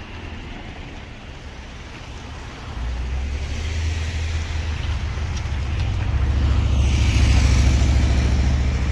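Engine of a motor vehicle running, growing louder about three seconds in and loudest near the end.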